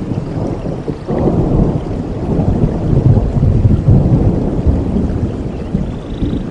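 Rainforest rain with a long rolling thunder rumble that swells suddenly about a second in and slowly eases off.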